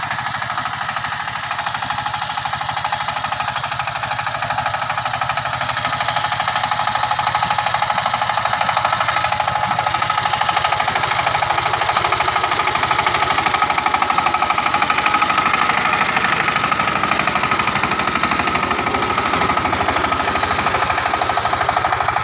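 Power tiller engine running with a rapid, even knock, getting somewhat louder about six seconds in.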